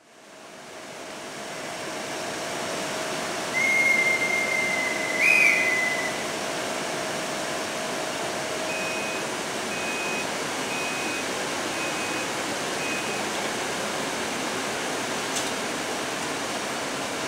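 Steady rushing noise from the EP07 electric locomotive standing at the platform with its train. About three and a half seconds in, a whistle sounds for about two and a half seconds and jumps briefly higher near its end, typical of a railway guard's departure signal. A few seconds later come five short beeps, about one a second.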